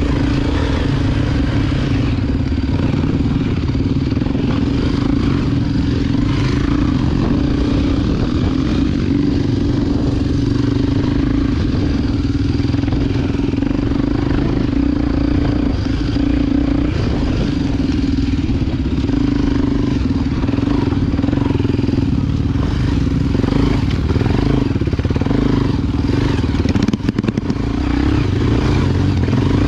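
Honda XR Tornado 293 single-cylinder four-stroke dirt bike engine running under way at fairly steady revs, with a brief dip near the end.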